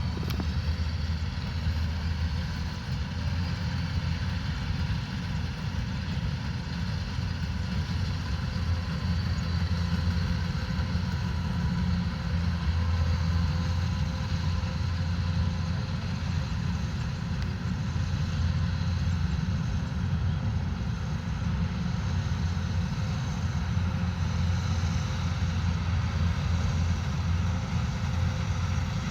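Kubota DC105X combine harvester running steadily, its diesel engine droning at a constant pitch as it works.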